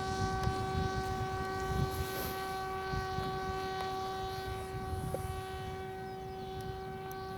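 Electric motor and propeller of a TBS Caipirinha FPV flying wing humming at one steady pitch as it climbs away under auto-launch throttle, with wind rumbling on the microphone.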